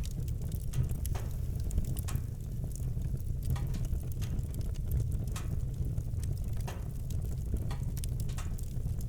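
Campfire crackling, with irregular sharp pops several times a second over a steady low rumble of the burning wood.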